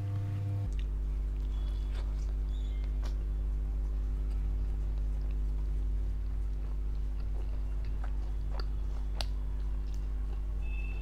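Close-up chewing of a mouthful of flatbread and chicken curry, with a few scattered wet clicks, over sustained low background music that changes chord about a second in.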